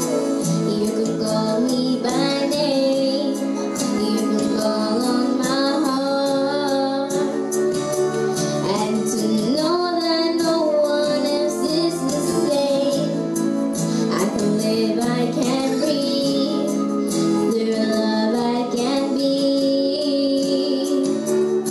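Music with singing: high voices, children's and women's, sing a melody over instrumental accompaniment.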